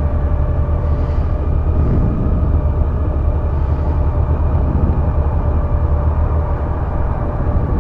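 Honda Gold Wing motorcycle running steadily on the road, with a constant low rumble.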